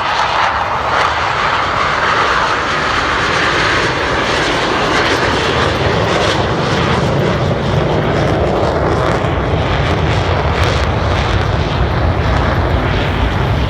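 KAI FA-50 fighter jets, each powered by a single turbofan, making a low pass overhead: a loud, steady jet roar whose pitch falls as they go by, leaving a deep rumble in the second half.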